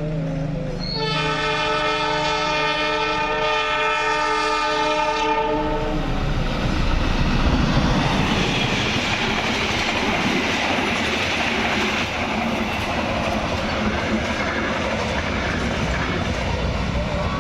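A train horn sounds one long, steady blast of about four seconds as another train approaches. A passing train then follows with a continuous noisy rush.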